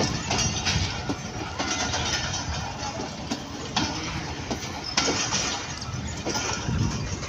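Passenger coaches rolling past close by, their wheels clicking and clattering irregularly over the rail joints under a steady rumble of running gear.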